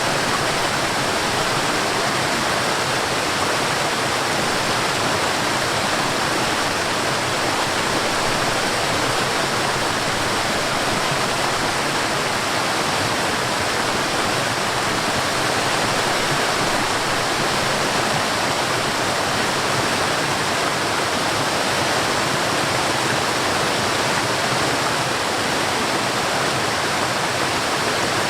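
Waterfall: water falling and rushing in a steady, unbroken roar of even noise.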